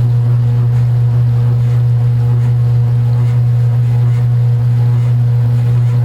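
Kenmore belt-drive portable washing machine running mid-cycle, a loud, steady low hum with no change in level.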